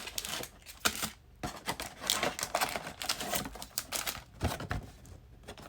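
Trading card packs and cards being handled: irregular light clicks and brief crinkles of foil wrappers and card stock.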